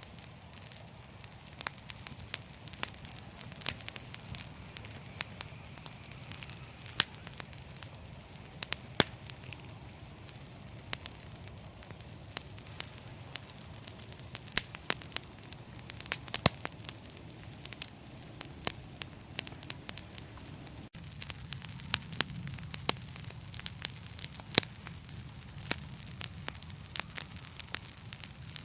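Wood fire crackling, with irregular sharp pops and snaps of varying loudness over a low steady rumble of the flames.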